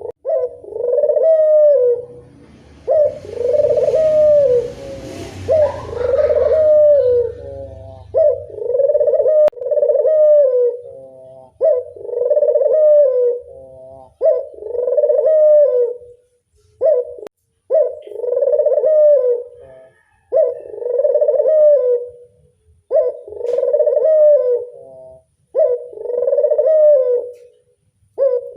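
A puter dove (domesticated ringneck dove) cooing over and over, one loud coo phrase about every two and a half seconds. For a few seconds near the start a rough, hissing noise runs under the coos, and there is a single sharp click about halfway through.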